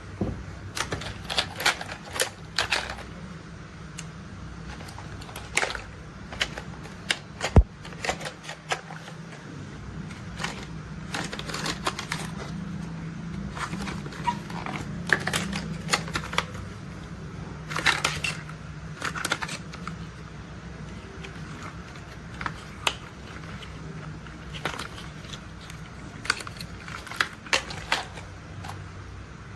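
Irregular clicks and taps of hard plastic toy parts being handled, with a sharp knock about seven and a half seconds in, over a low steady hum.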